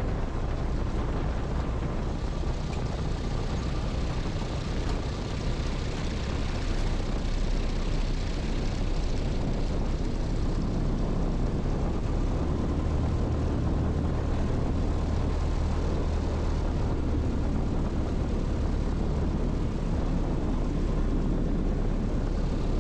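Zenith STOL CH 750 Super Duty light airplane's engine and propeller running steadily, with a deeper hum strengthening about halfway through.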